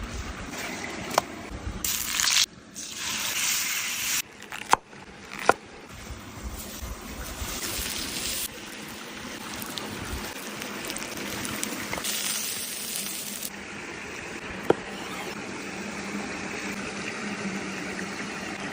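Food sizzling on a hot stone slab, a steady hiss that jumps in level at several cuts, with a few sharp clicks.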